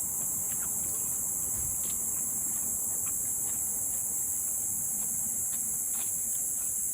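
Steady, shrill chorus of crickets trilling at several high pitches, with scattered faint clicks beneath.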